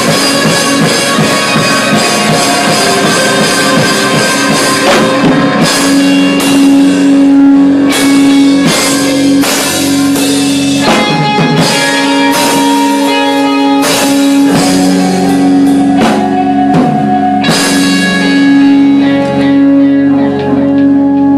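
Rock band playing with guitars and a drum kit, in an instrumental stretch without singing: from about six seconds in a low guitar note rings on under the chords while cymbals crash every second or two.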